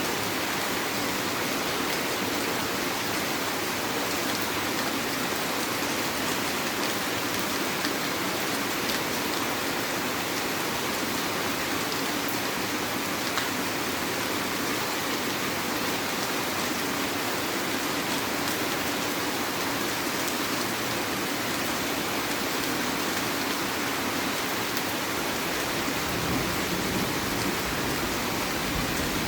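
Heavy rain falling steadily. A low rumble builds near the end.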